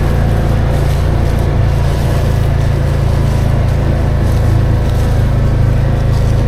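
An engine running steadily close by, with a deep, even hum that holds one speed throughout.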